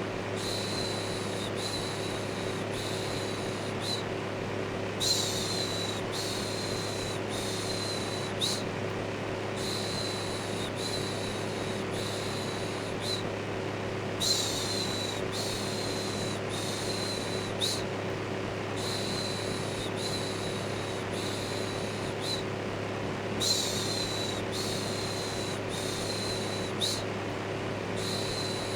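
Electric fan running steadily with a low hum, overlaid with a looped human "shhh" shushing that repeats about every second or so, each shush starting with a slightly louder hiss.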